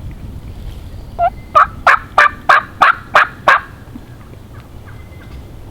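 A series of eight loud turkey yelps, about three a second, each note breaking from a higher to a lower pitch.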